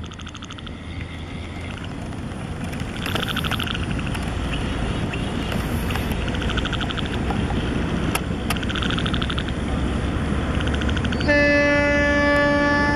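An approaching diesel commuter train rumbles, growing steadily louder. About eleven seconds in, its horn sounds one long, loud, steady blast.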